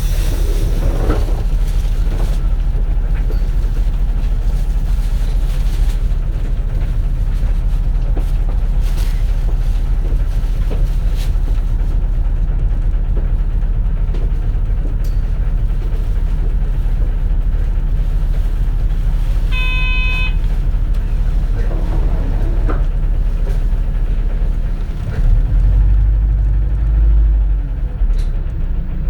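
A 2004 CNG city bus running, heard from inside the cabin: a steady low engine and road rumble that swells louder for a couple of seconds near the end. A short electronic tone sounds once, about two-thirds of the way in.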